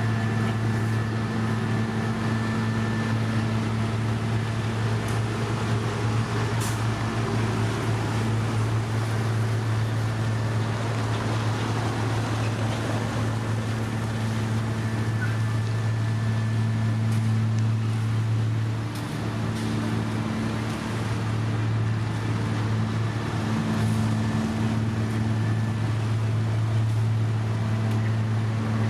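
Engine of heavy road-paving machinery running steadily, a low even hum that dips briefly about two-thirds of the way through.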